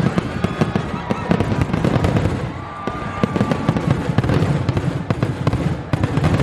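Fireworks display: a dense run of bangs and crackling pops, many a second, over a low rumble, with a faint whistling tone about a second in.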